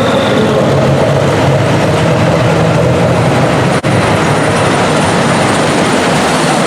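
Super stock pulling tractor engine running at full power under load during a pull, loud and steady, with a split-second break about four seconds in.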